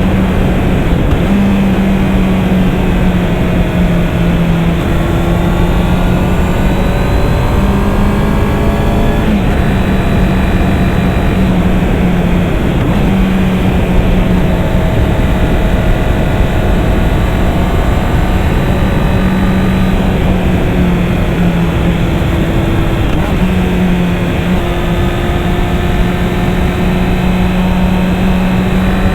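Honda CB650R's inline-four engine running under way, its note climbing and then stepping down several times as the rider works through the gears, over a steady rush of air noise.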